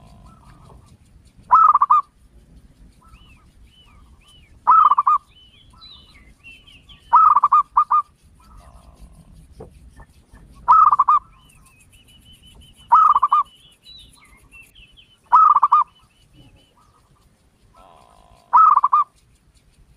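A large bird calling loudly, a short call repeated about every two to three seconds, once doubled, with fainter bird chirps between the calls.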